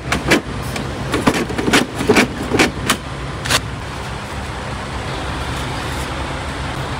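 Semi truck diesel engine idling with a steady low hum. Over the first three and a half seconds a string of sharp clicks and knocks sounds over it, then only the idle remains.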